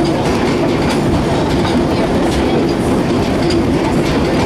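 Vintage passenger train rolling along the track: a steady rumble of steel wheels on rails, with light clicks scattered through it.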